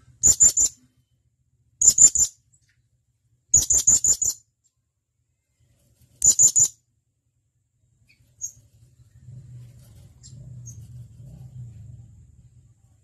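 Blue-crowned hanging parrot (serindit) giving four short bursts of rapid, shrill, high-pitched notes, each of three to five notes, in the first seven seconds. After that only a faint chirp or two and a low hum.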